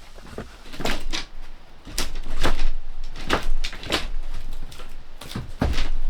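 A run of irregular knocks, bangs and scrapes from hand work tearing out old fittings inside the wooden boat, about seven in all, the loudest near the middle and again near the end.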